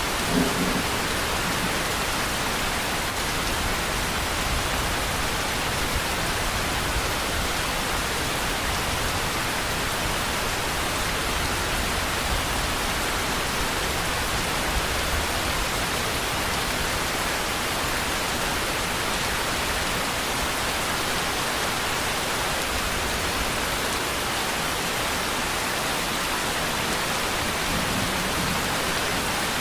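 Steady, even rainfall hiss with no let-up.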